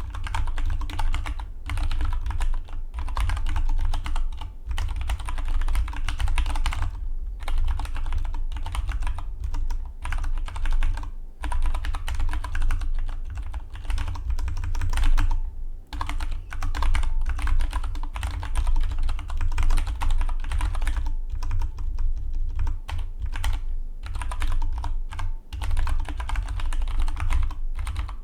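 Fast, continuous typing on a Dygma Defy split mechanical keyboard, key clicks coming in quick runs with a few brief pauses between bursts.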